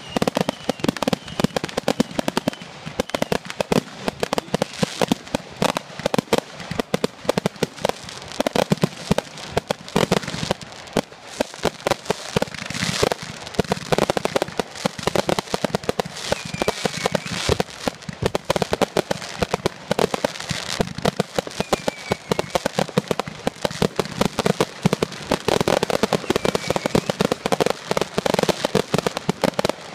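Fireworks display: a dense, continuous barrage of rapid crackling pops and bangs, with now and then a faint falling whistle.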